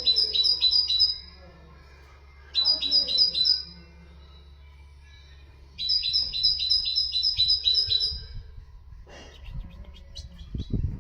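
Songbird sold to bird-keepers as the 'haddad' (blacksmith bird) singing three phrases of quick, evenly repeated high notes, a tutor song for goldfinches and canaries. After the last phrase come a few knocks and low thumps.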